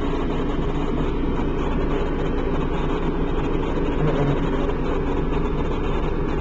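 Fire engine idling steadily, a continuous low engine hum with no siren.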